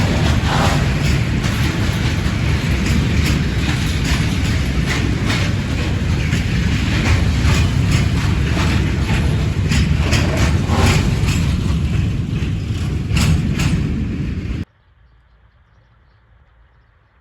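A train passing close by: heavy rumble from the rolling stock, with repeated sharp clicks of wheels over rail joints. The sound cuts off abruptly about fifteen seconds in, leaving only faint background noise.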